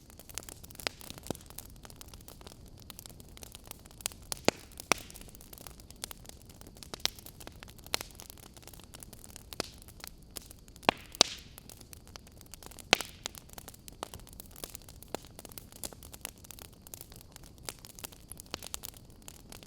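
Wood fire crackling in a fireplace: irregular sharp pops and snaps over a soft steady hiss, with a few louder pops about halfway through.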